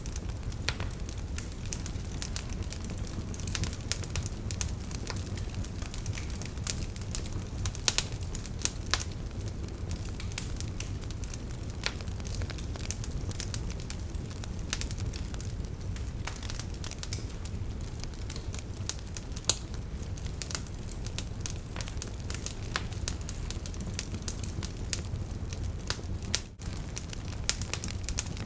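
Wood campfire burning, with frequent irregular crackles and sharp pops from the firewood over a steady low rush of the flames.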